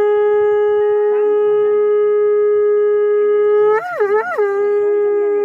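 Conch shell (shankha) blown in a long, loud held note for puja, broken about four seconds in by a quick warble of two pitch swoops, then held again.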